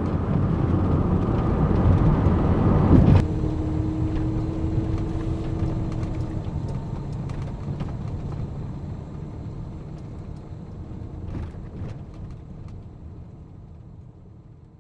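Low vehicle rumble that swells to its loudest about three seconds in, drops off suddenly, then fades away slowly.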